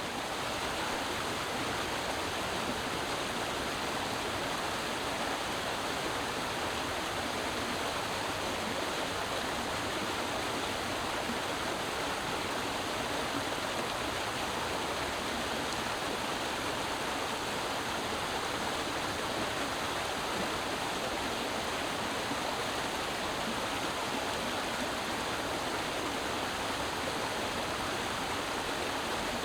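Creek water flowing steadily over rocks, an even rushing and babbling.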